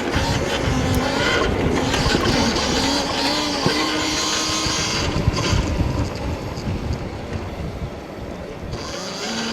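Stomp Haywire electric dirt bike's motor whining as it is ridden, its pitch rising and falling with the throttle, under heavy wind buffeting on a helmet-mounted camera.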